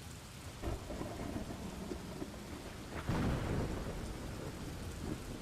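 Steady rain with rumbles of thunder, the loudest a sudden clap about three seconds in that rolls on for a couple of seconds.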